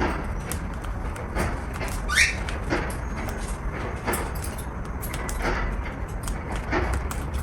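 Cockatiel giving one short, rising chirp about two seconds in, with fainter brief sounds scattered around it over a steady low rumble.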